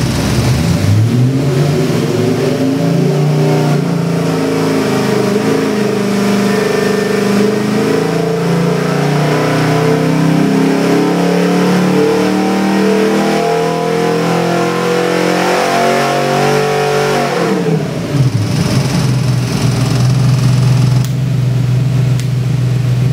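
Chevrolet small-block 350 V8 crate engine running on an engine dynamometer through a load sweep: it picks up from idle, climbs steadily in revs for about seventeen seconds under the dyno's load to past 4,400 rpm, then drops quickly back to a steady idle.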